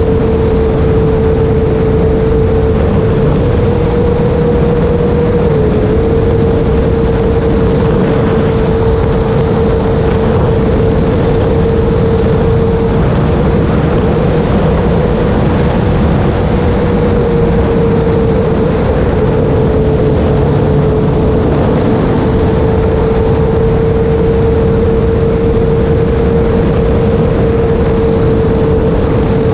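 Electric motor and propeller of an E-flite Air Tractor RC plane running steadily in flight: a constant hum that dips and drifts slightly in pitch a few times, over heavy rushing airflow noise.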